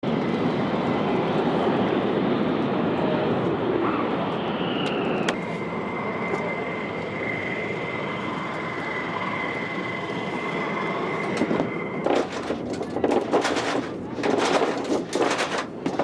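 Fighter jet engine running with a loud, even roar. About five seconds in, a high whine drops in pitch and then holds steady. From about twelve seconds in, the sound turns choppy and broken.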